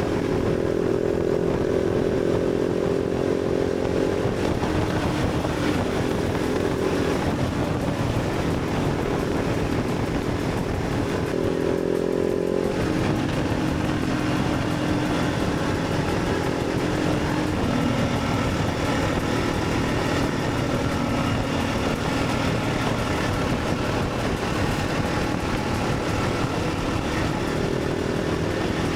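Motorcycle engine running under way, its pitch rising and dropping several times as the revs change.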